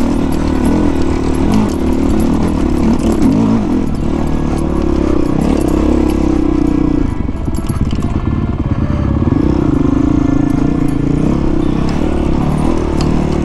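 Honda CRF450 dirt bike's single-cylinder four-stroke engine running while being ridden along a trail, the revs rising and falling with the throttle. It eases off about halfway through and picks up again a couple of seconds later.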